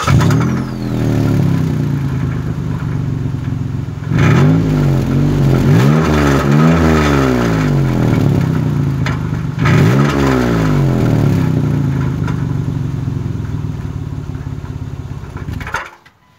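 2005 Mitsubishi Endeavor's 3.8-litre V6 running loud and unmuffled, its exhaust pipe rusted clean through just ahead of the muffler. It idles, is revved several times in the middle, then is shut off near the end.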